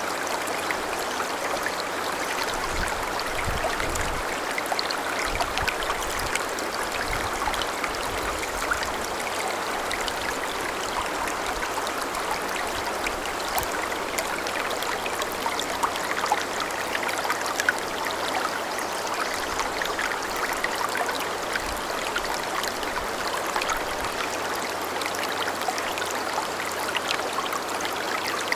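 Clear snowmelt mountain river, the Azusa, babbling in a steady, even rush of water.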